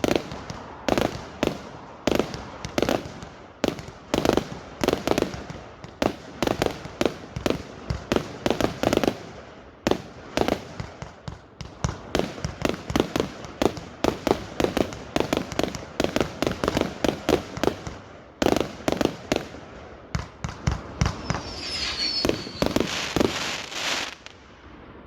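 Fireworks going off in a rapid, irregular barrage of bangs and crackles, several a second. A brief whistling comes near the end, just before the barrage stops abruptly.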